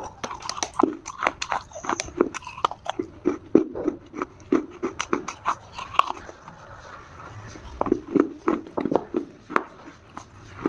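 Multani mitti (fuller's earth clay) being bitten and chewed, heard close up as a rapid, irregular run of sharp crunches that thins out a little past the middle, then picks up again.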